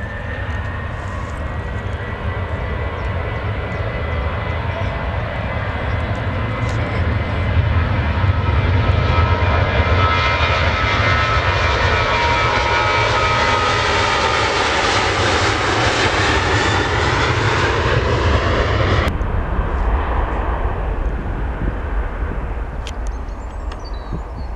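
Airliner passing close, its engine noise building to a loud peak with whining tones that slide down in pitch as it goes by. The high whine cuts off abruptly about two-thirds of the way through, leaving a fading low rumble.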